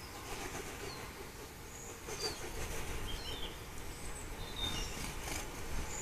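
Short high chirps from small garden birds, scattered through, over wind rumbling on the microphone, with a few sharp clicks in the middle.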